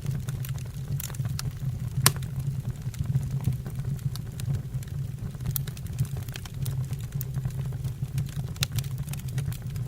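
Wood fire burning in a fireplace: a steady low rumble of the flames with scattered crackles and pops from the burning logs, and one sharper pop about two seconds in.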